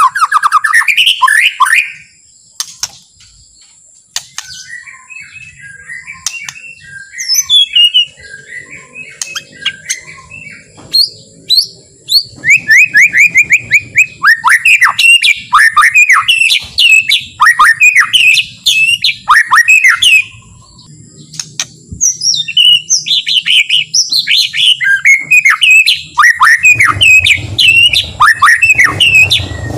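White-rumped shama singing in phrases of rapid, sweeping whistled notes. The song is loud at first, goes softer and sparser for several seconds, then turns loud and dense again from about the middle on.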